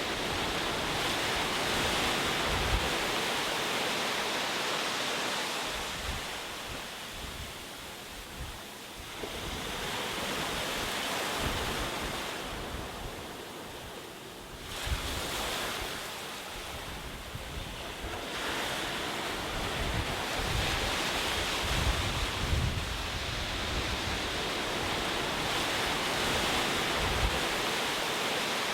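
Ocean surf breaking and washing up the shore, the hiss of the waves swelling and easing, with lulls about a quarter and halfway through. Low rumbles of wind on the microphone sound under the surf.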